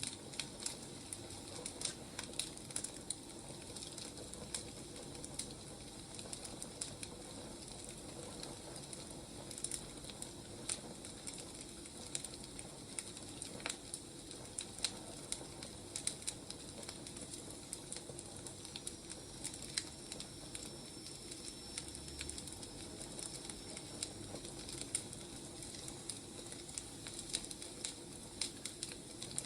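Wood fire crackling steadily, with frequent small sharp pops and snaps scattered irregularly over a soft hiss.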